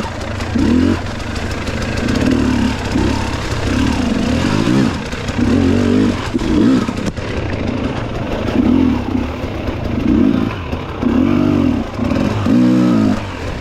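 Dirt bike engine being ridden with repeated throttle blips, revving up and falling back about once a second over a steady low rumble.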